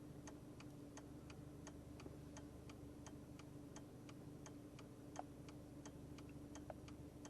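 Turn-signal ticking inside a VW Golf 4's cabin, an even tick-tock of about three clicks a second, faint, over a steady low hum.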